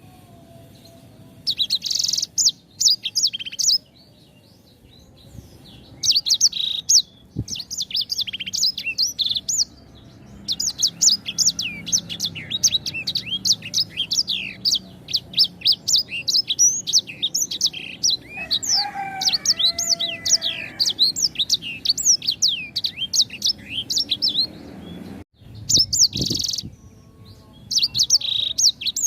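A sanger songbird singing rapid, high-pitched chirps and quick sweeping notes, first in short bursts, then in one long unbroken run lasting over ten seconds, cut off suddenly before a few more short bursts.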